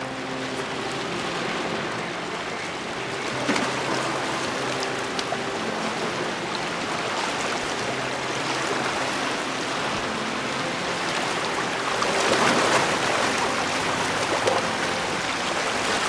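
Steady rushing noise like running or spraying water, a little louder near the end, with a few short clicks and faint background music tones underneath.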